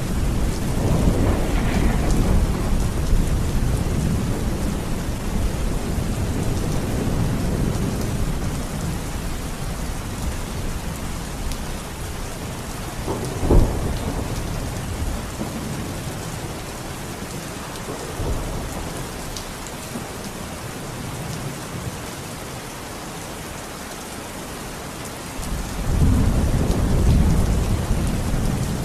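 Steady rain with rolling thunder: a long low rumble fades over the first half, a sharp thunderclap cracks about halfway through, and a new rumble swells near the end.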